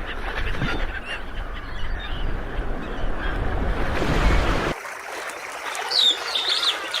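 Birds calling over a steady rush of noise with a heavy low rumble. The noise cuts off suddenly near the end, leaving a quieter background with a brief burst of high calls.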